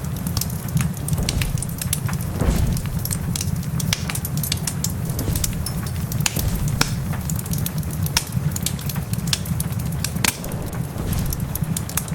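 Wood fire crackling in a fireplace, with many sharp pops, over steady rain and a constant low rumble.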